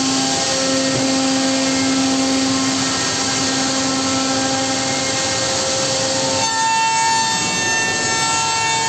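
Homag five-axis CNC machining centre running, a steady cutting noise with several high whine tones over it; the whine changes to a different set of pitches about six and a half seconds in.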